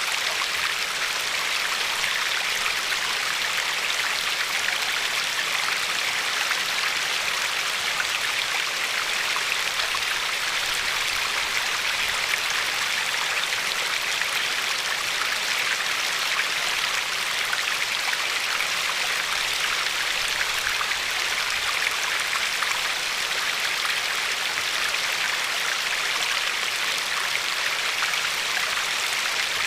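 River water flowing and lapping over a pebble shore: a steady, even rush of water that does not change.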